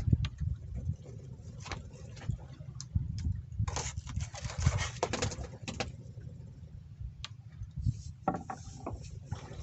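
Wind rumbling on the microphone aboard a small fishing boat, with scattered knocks and a short rush of noise about four seconds in.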